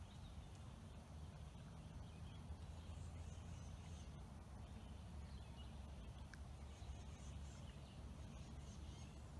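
Quiet outdoor ambience by a river: a steady low rumble with faint, scattered bird chirps.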